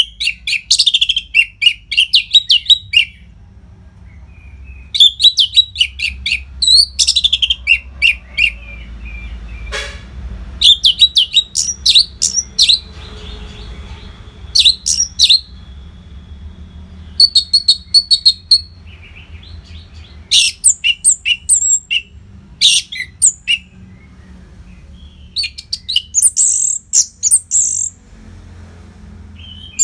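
Orange-headed thrush singing: phrases of rapid, varied chirps and whistles lasting a second or three, repeated after short pauses.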